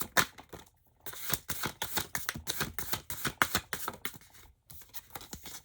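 Tarot cards being shuffled by hand: a fast run of soft clicks and flaps, breaking off briefly about a second in and again near the end.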